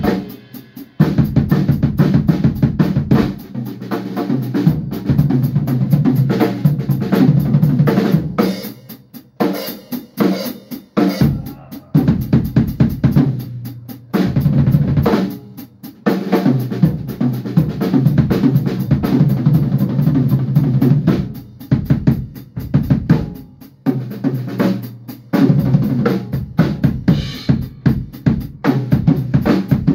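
Drum kit playing live, bass drum and snare in dense runs of rapid hits broken now and then by short pauses.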